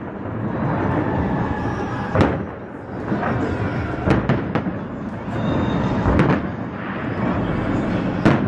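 Aerial firework shells bursting overhead in a display: one sharp boom about two seconds in, a quick run of three around four seconds, another just after six seconds and one near the end, with a steady wash of noise between them.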